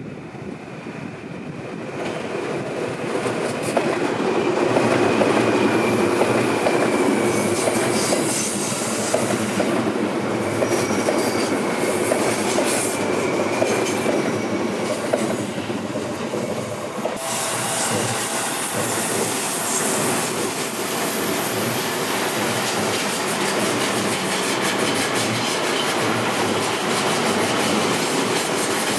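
Seibu Railway electric trains running past on the track: steady rumble of wheels on rails, with a thin wheel squeal through much of the first half.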